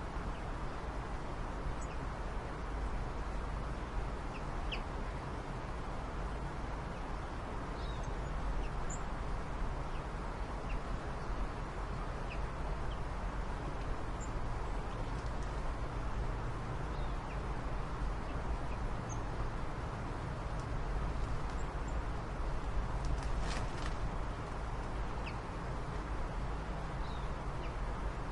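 Steady background noise with scattered short, high bird chirps, a few in quick succession about two-thirds of the way through.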